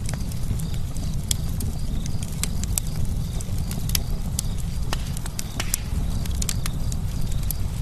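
Campfire crackling: irregular sharp pops and snaps, several a second, over a steady low rush of burning.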